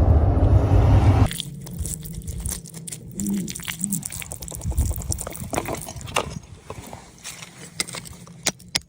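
Hand tools scraping, clicking and crunching against rock and crystal, with a loud rushing noise in the first second or so.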